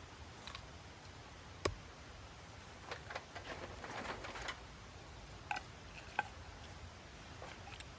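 A few sharp clicks and knocks: one about two seconds in and two more near the end. Between them, from about three seconds in, there is a second and a half of rustling.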